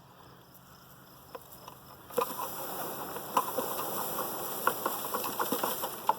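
A honeybee swarm shaken from a tree branch: about two seconds in, a sudden rush of rustling sets in, with many light pattering taps as clumps of bees drop, and the swarm buzzing.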